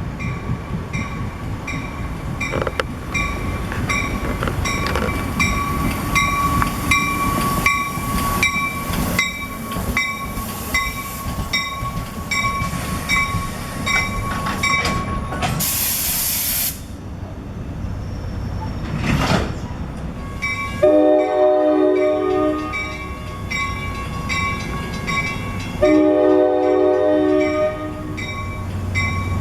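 A train rolling past with steady wheel clatter and a thin squeal, then a short loud hiss near the middle. A multi-chime train horn then sounds two long blasts. A bell-like ding repeats about twice a second throughout, typical of a grade-crossing bell.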